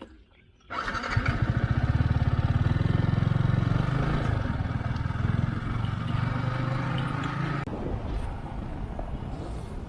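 Yamaha R15 V3's single-cylinder engine starting up less than a second in and then running steadily with a fast pulse. Near the end it drops to a lower, quieter running sound.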